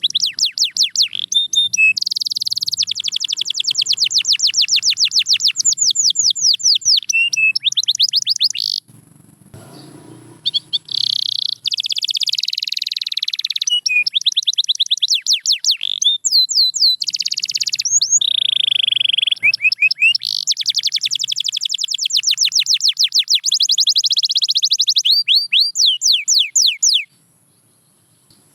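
Domestic canary singing: long, fast trills of rapidly repeated sweeping notes, with a short break near the middle, stopping shortly before the end.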